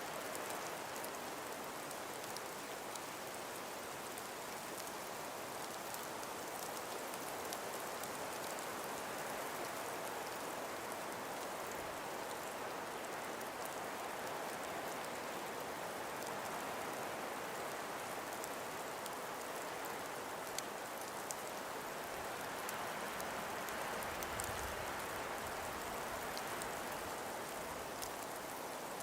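Calm breeze through frost-covered forest trees: a steady, even rushing hiss with faint scattered tiny ticks.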